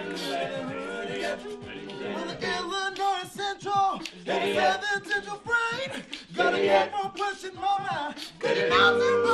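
Men's a cappella group singing in close harmony with no lead words, the voices moving between chords. A louder held chord comes in near the end.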